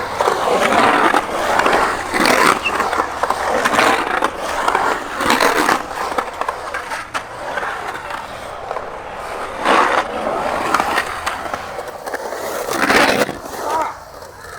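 Skateboard wheels rolling on park concrete, with several louder scrapes and clacks a few seconds apart as the board grinds and hits the ground.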